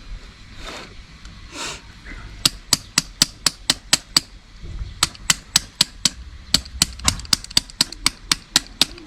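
A freshly glued puncture patch on a bicycle inner tube being struck over and over so that it bonds: sharp, rapid taps, about four a second, beginning a couple of seconds in with a few short pauses.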